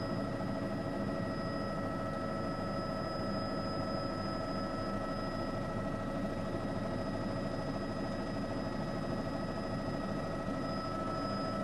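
Steady machine hum with several constant high whining tones over it, unchanging throughout.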